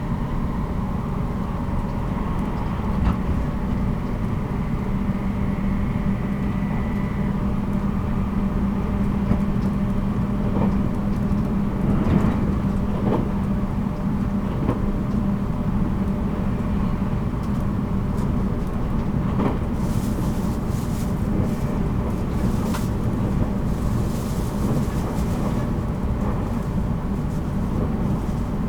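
Running sound of a 783-series electric train heard inside motor car MoHa 783-13 at speed: a steady rumble of wheels on rail with a humming motor tone. A higher faint whine fades out about seven seconds in, and there are occasional knocks and some brief hissing in the second half.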